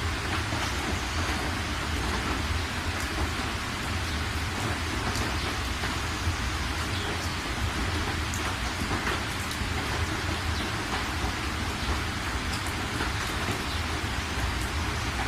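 Steady rain falling, with many individual drops ticking on a hard surface over a constant low rumble.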